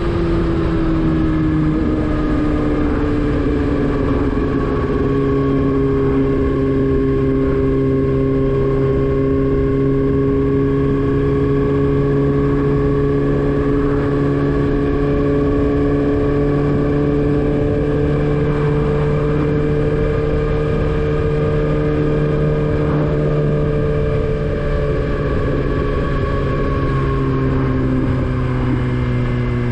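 Motorcycle engine running at a steady cruising pitch while riding, under a constant low rumble. The pitch eases down a little in the first couple of seconds and again near the end.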